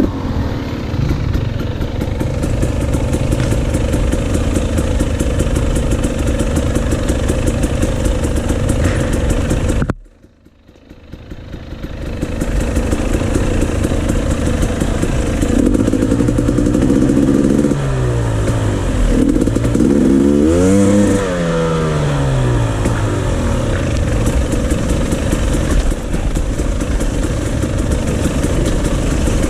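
Dirt bike engines running: a steady off-road motorcycle engine note for the first ten seconds, a brief drop-out about ten seconds in, then several engines revving up and down in pitch from about halfway through as other dirt bikes pass.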